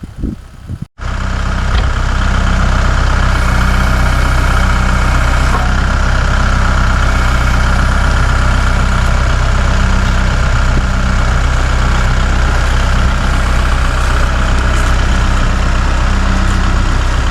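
An engine idling steadily at an even pitch, starting abruptly about a second in.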